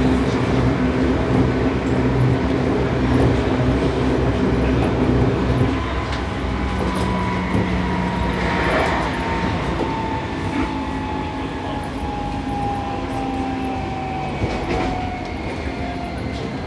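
Seibu 6000 series electric train with a Toshiba IGBT VVVF inverter, heard from inside a motor car: wheels and traction motors running on the rails. From about 7 seconds in, a thin motor whine falls slowly in pitch as the train brakes for a station.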